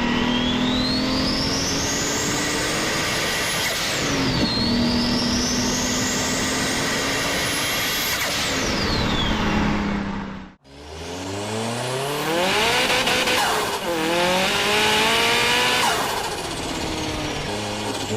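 Turbocharged car engine under hard acceleration, with a high turbo whistle that climbs twice and drops back between pulls. About ten seconds in, the sound cuts to another turbocharged engine revving up and dropping back several times.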